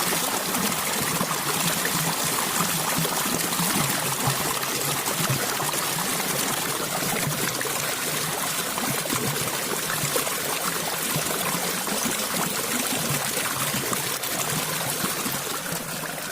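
A small stream of water flowing and trickling steadily, an even rushing splash with no pauses.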